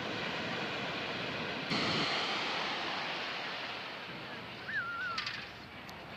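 Small sea waves washing on the shore, one wave breaking about two seconds in and then easing off. A brief high wavering call is heard near the end.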